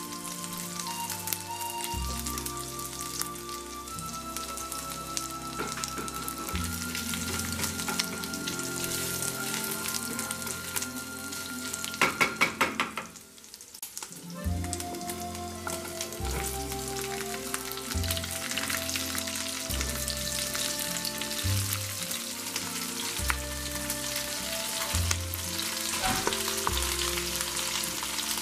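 Hot oil sizzling steadily in a frying pan as garlic and then chopped vegetables fry, over soft background music. About twelve seconds in there is a quick run of sharp clicks and a brief dip before the sizzling resumes.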